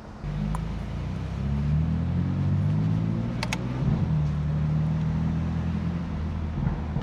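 BMW F80 M3's twin-turbo inline-six engine and exhaust pulling away at low speed, its note rising a little and then holding steady. Two sharp clicks come about halfway through.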